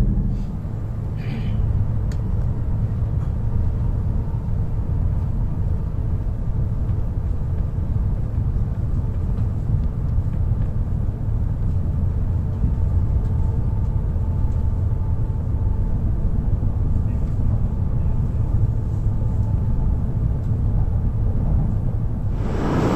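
Steady low rumble of an E5 series Shinkansen running at speed, heard from inside the passenger car. A faint thin whine comes and goes in the middle. Just before the end the noise suddenly swells much louder.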